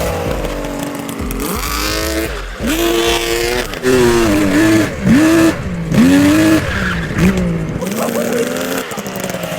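Small pull-started engine revving up and down repeatedly as the vehicle is driven, its pitch rising and falling several times, most sharply in the middle.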